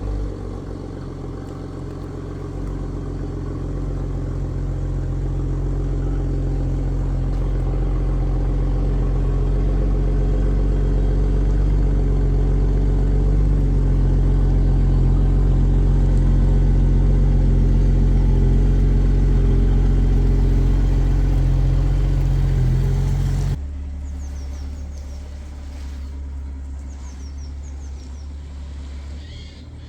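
Toyota Supra MKV engine idling with a steady low hum that slowly grows louder, then breaks off abruptly about three-quarters of the way through. What follows is quieter, with a few faint high chirps.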